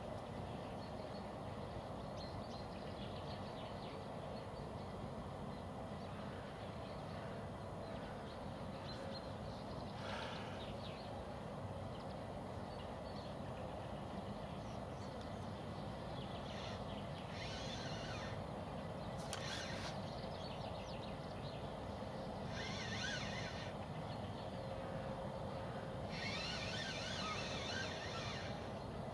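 Open-air ambience: a steady low rumble of background noise, with several short bursts of small bird calls in the second half and one sharp click.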